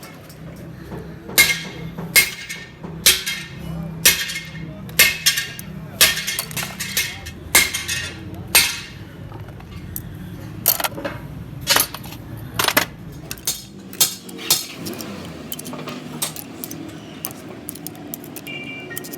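Metal tools and engine parts striking and clinking with a ringing sound, sharp blows about once a second, giving way to lighter clicks and taps near the end.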